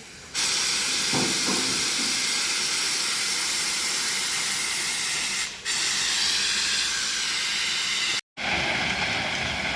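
Freight train passing close, a loud steady rushing hiss that starts abruptly, dips briefly midway and cuts out for an instant near the end.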